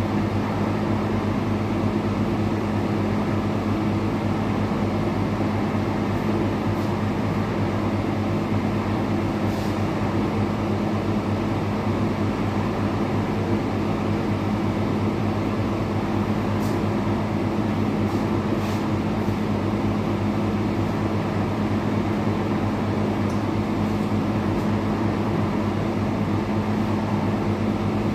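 Steady motor hum with a low droning buzz and a constant hiss, unchanging throughout, from machinery running during pest-control spraying.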